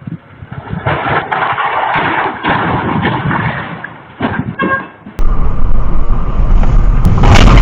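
Motor-vehicle noise from two consecutive fail clips. First comes road and engine noise with a short horn-like beep near the middle. Then, about five seconds in, it cuts abruptly to a louder, deep engine rumble.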